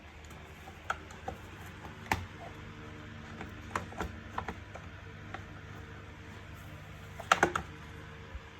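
Scattered clicks and light knocks of the vacuum cleaner's plastic parts being handled and fitted together, with a louder cluster of clicks near the end, over a faint steady low hum.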